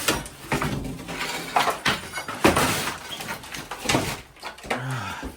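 Irregular knocks and clatter of hand tools and metal parts during hands-on work on HVAC fittings.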